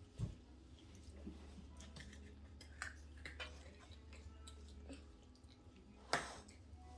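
Faint clicks and taps of kitchen handling over a low steady hum, with a soft thump just after the start and a louder brief scrape or knock about six seconds in.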